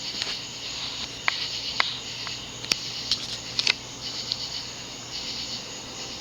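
Vintage View Fan Codep ceiling fan with heavy plexiglass blades running on high speed: a steady rush of air over a low motor hum, with a few light ticks.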